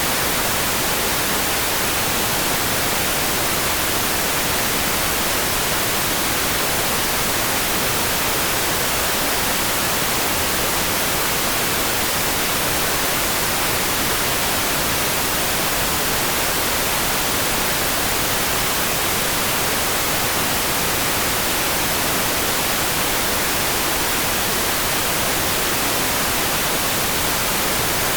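Steady, even hiss of a sleep-aid rain sound, close to plain white noise, with no separate drops or other events standing out.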